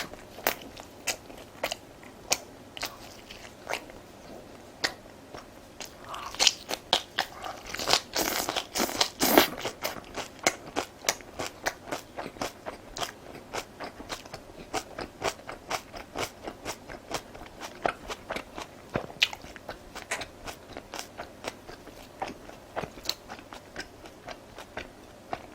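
A person eating crunchy food: a steady run of crisp bites and chewing crunches, thickest about a quarter to a third of the way in.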